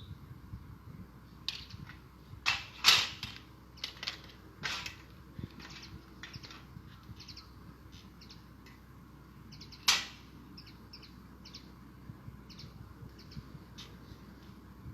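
Hand pruning shears snipping thuja branches: irregular sharp snips, several close together in the first five seconds and one loud one about ten seconds in.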